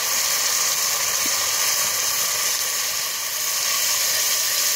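Curry mixture frying in hot oil in a pot, a steady sizzling hiss.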